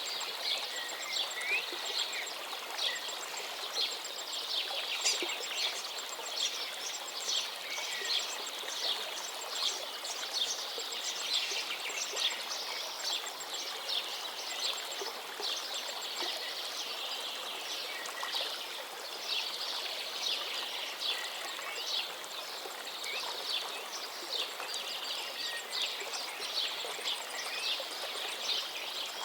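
Many small birds chirping and trilling over the steady rush of a flowing stream.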